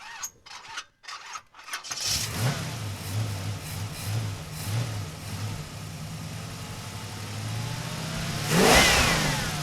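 A few clicks, then an engine starts about two seconds in and idles with a low, pulsing beat. It revs up and back down near the end.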